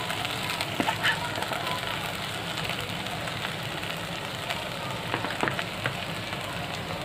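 Hot ghee sizzling steadily in a steel pot under freshly boiled basmati rice just added to it, with a few light clicks.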